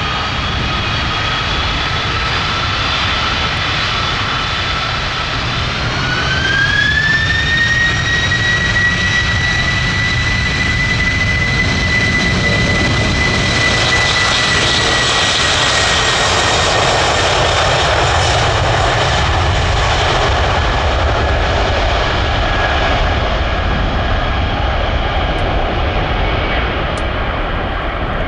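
Jet airliner engines running loud with a high whine over a deep rumble. The whine rises in pitch and the sound gets louder about six seconds in as the engines spool up, then holds steady before its pitch slowly eases down in the second half.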